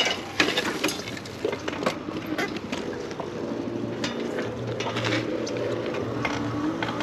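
An electric bike rattling and knocking over rough ground, with sharp clicks and knocks in the first couple of seconds. A steady low hum comes in after about three seconds.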